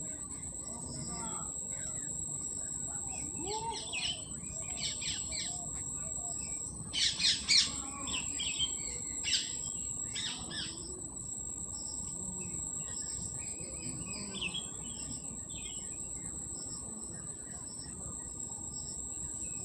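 A bird chirping in short bursts of quick high notes, with the loudest run of chirps about a third of the way in, over a steady high-pitched whine.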